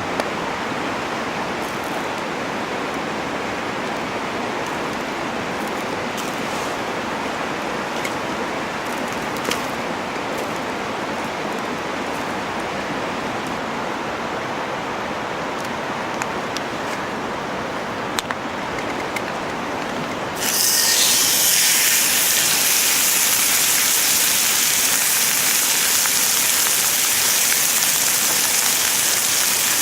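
A steady rushing noise with a few sharp crackles, then about two-thirds of the way in food goes into a hot pan over the wood fire and a loud sizzle starts suddenly and keeps going.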